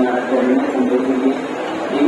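Mumbai suburban EMU local train running along the platform: a steady rush of wheel and running noise with several humming tones that shift in pitch.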